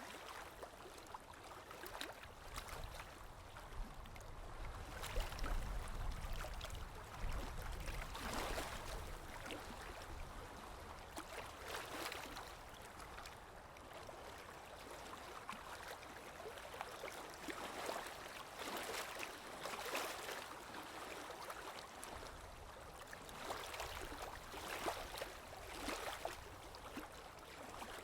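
Running water splashing and gurgling, with irregular louder surges every second or two and a low rumble for a few seconds about five seconds in.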